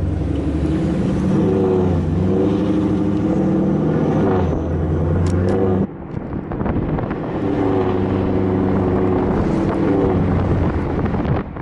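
Car engine accelerating hard, its pitch climbing, holding and falling away. It breaks off abruptly about six seconds in, then rises and falls again.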